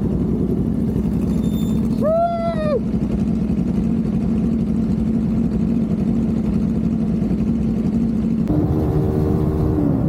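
Kawasaki Ninja 400 parallel-twin engine running steadily under way, with wind noise. A brief tone rises and falls about two seconds in, and near the end the engine note changes and its pitch drops.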